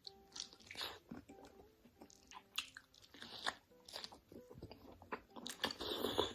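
Close-miked crunchy bites and chewing of food: a string of sharp crunches, with a louder, denser run of crunching near the end.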